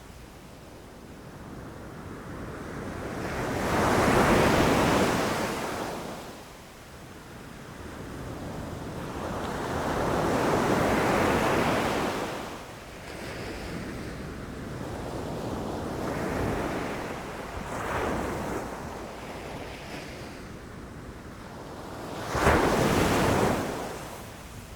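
Sea waves rushing in and crashing on the shore in slow surges, each swelling up and washing back; the loudest is a sharp crash near the end.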